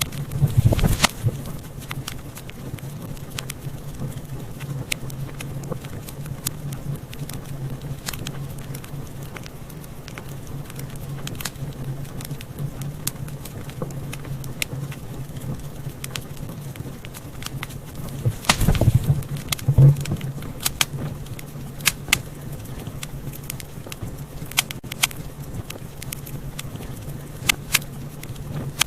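Wood fire crackling, with scattered sharp pops over a steady low rumble of the flames; the pops come in louder flurries about a second in and again near the middle.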